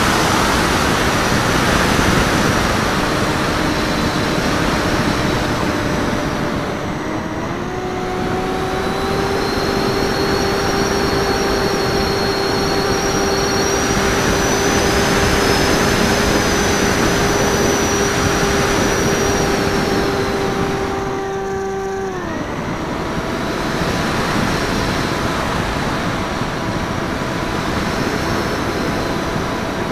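Raptor FPV radio-controlled plane in flight: wind rushing over the wingtip-mounted camera's microphone, with the steady whine of its electric motor and propeller. The whine steps up in pitch about seven seconds in and holds, then falls away sharply a little after twenty seconds and comes back at a lower pitch.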